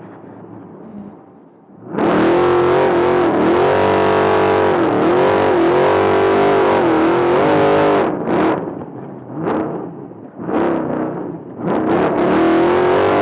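Race trophy truck's engine at full throttle, its pitch rising and falling as it revs. It cuts in abruptly about two seconds in, backs off briefly several times between about eight and twelve seconds in, then pulls hard again near the end.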